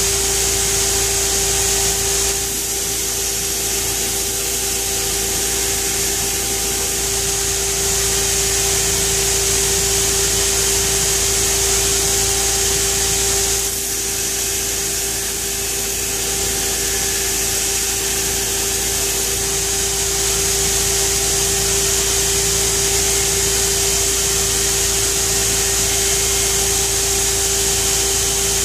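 Pheer 327 2x72 belt grinder running under its 220 V controller, a steady motor whine over a strong, even hiss from the abrasive belt. The sound dips and shifts briefly about two seconds in and again about halfway through.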